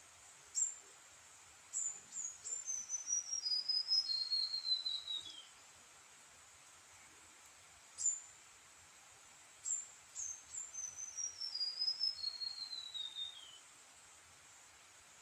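A songbird sings the same phrase twice: a short high note, then a long run of quick chirps that slides steadily down in pitch, about four seconds each time. A faint steady high-pitched tone runs underneath.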